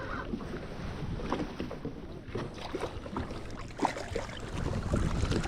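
Wind on the microphone and water slapping against a drifting jet ski's hull in strong current, with scattered small clicks and knocks.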